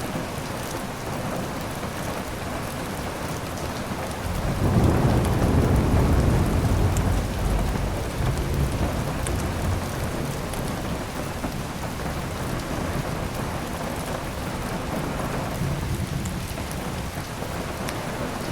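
Steady heavy rain, with a low rumble of thunder swelling about four seconds in and fading over the next few seconds.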